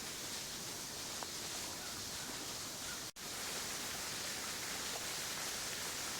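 Steady rush of the waterfall and stream flowing in the gully below, fed by recent rain, with a brief dropout in the sound about three seconds in.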